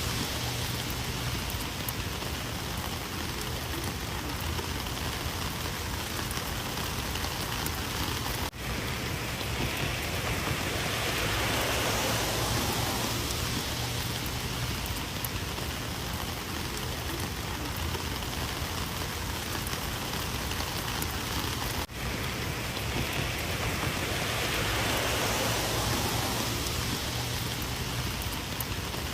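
Steady rain falling, swelling and easing slowly, with a very brief break in the sound twice.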